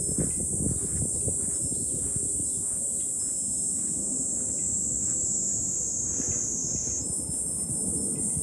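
Cicadas in a steady high-pitched chorus, with wind rumbling on the microphone underneath. A little after seven seconds the cicada song shifts up in pitch.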